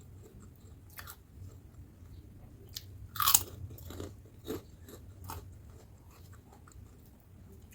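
Close-miked eating of crispy batter-fried tempeh: a loud crunchy bite about three seconds in, then smaller crunches and chewing.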